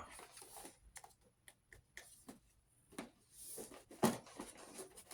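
Cardboard packaging being opened and handled: scattered light clicks and rustles, a short scrape, and a sharper knock about four seconds in.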